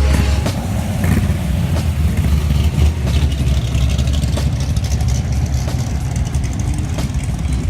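Vehicle engine running with a steady low rumble, without clear revving.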